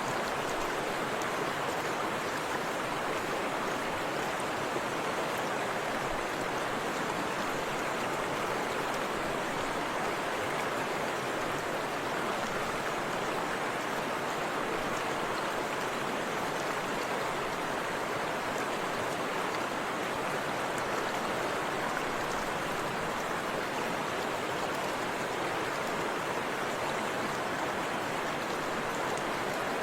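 Forest river rushing over rocks, a steady even rush of water with no breaks.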